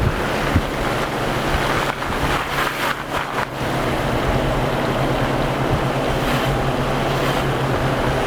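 A vehicle engine running, with a steady low hum that grows clearer about two and a half seconds in, under rushing wind and rumble noise.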